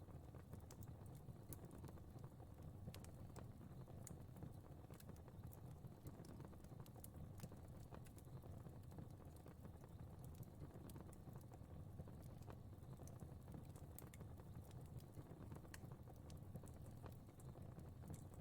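Fire crackling faintly: irregular small pops and clicks over a low, steady rumble of flames.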